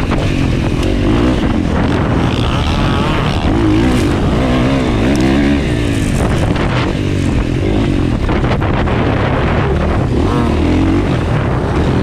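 Motocross bike engine revving hard, its pitch rising and falling again and again as the throttle is worked and gears change, over a constant heavy low rumble.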